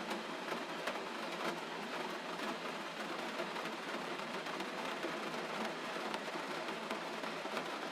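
Steady gentle rain: an even hiss with scattered faint drop ticks.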